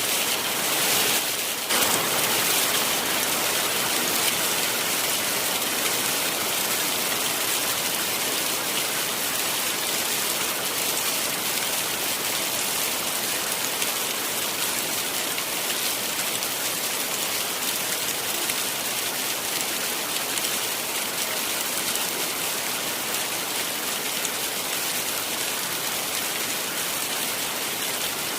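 Heavy rain falling steadily, a dense even hiss of drops, briefly louder about two seconds in.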